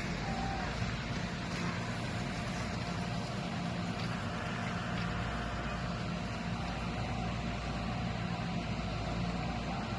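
A steady low mechanical hum over an even background noise.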